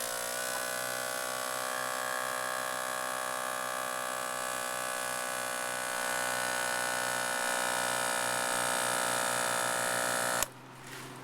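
A SuperFlow HV-35 12-volt portable air compressor running as it inflates a small stroller tire: a steady motor buzz that dips slightly in pitch in the first second. It grows a little louder about halfway through and cuts off suddenly near the end.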